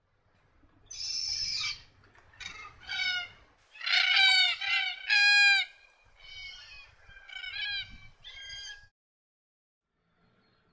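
Red-tailed black cockatoos giving a run of harsh, grating calls, the loudest in the middle of the run, before they fall silent.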